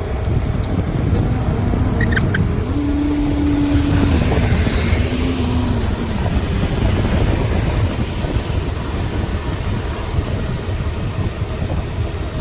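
A vehicle on the move, its engine running under a steady low rumble with some wind on the microphone. Between about two and six seconds in, an engine hum rises and then drops back in pitch.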